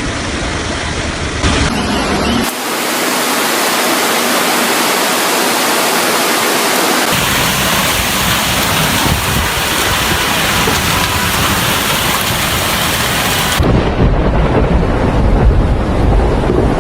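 Heavy rain and storm wind: a loud, steady hiss that changes abruptly several times, turning in the last few seconds to a loud low rumble of wind.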